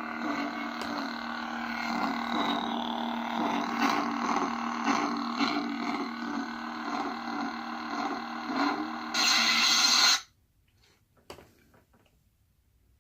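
SaberForge lightsaber's 'Crimson' sound font playing through the hilt's speaker: a steady electric hum with swelling swing sounds, then a louder harsh burst about nine seconds in that cuts off suddenly at about ten seconds, followed by a faint click.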